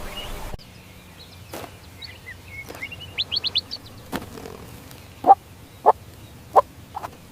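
Birds chirping and calling. About half a second in the recording cuts to a quieter one with scattered high chirps and a quick run of four high notes. From about five seconds, short, louder, lower calls repeat every half second or so.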